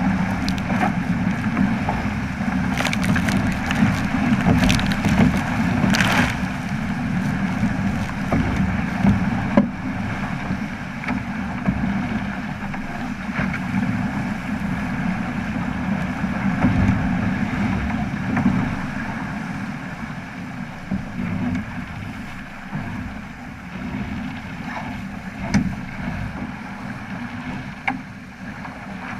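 Wind rumbling on the microphone and water rushing past a Flying Fifteen sailing keelboat under way. A few short, sharp sounds come in about three to six seconds in.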